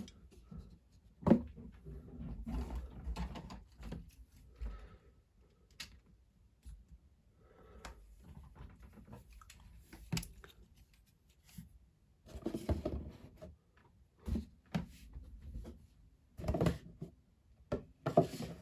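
Plastic Lego models and pieces being handled and set down on a table: scattered sharp clicks and knocks between stretches of rustling handling noise.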